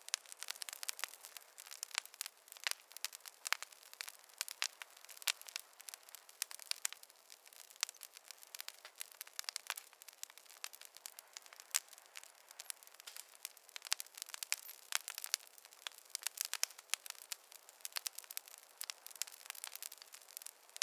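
Campfire crackling: dense, irregular sharp pops and snaps of burning wood over a faint hiss.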